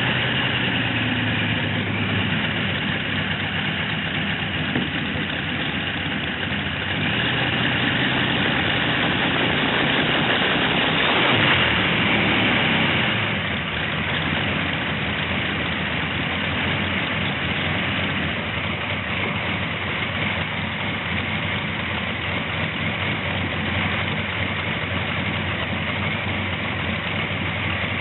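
Tractor engine running at idle. Its sound swells for a few seconds near the middle, as if briefly revved, then settles back to a steady idle.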